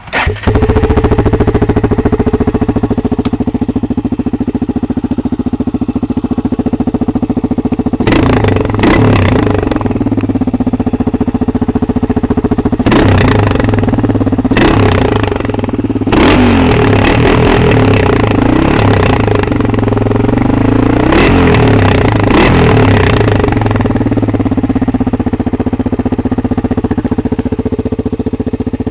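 Honda 400EX ATV's single-cylinder four-stroke engine running loudly through an exhaust with the spark arrester removed, idling with several throttle blips and revs between about 8 and 23 seconds in.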